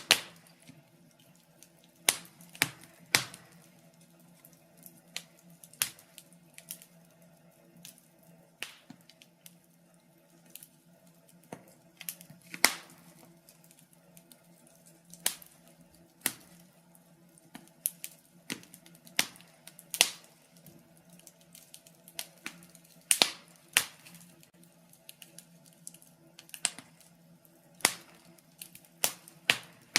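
Burning logs in a fireplace crackling: irregular sharp pops and snaps, about one or two a second and varying in strength, over a faint steady low hum.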